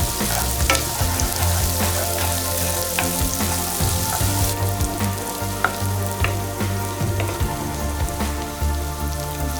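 Food frying and sizzling in a pan, with scattered sharp clicks of stirring.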